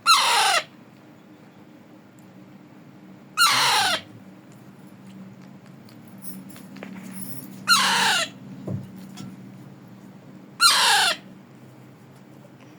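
Parrot squawking four times, about three to four seconds apart: each call a loud, harsh screech that falls in pitch and lasts about half a second.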